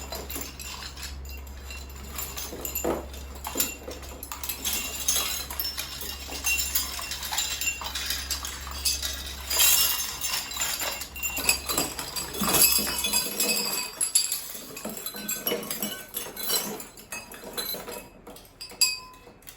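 Wind chimes jingling and clinking as they are handled and untangled, with many small overlapping strikes and high ringing. A low hum underneath stops about two-thirds of the way through.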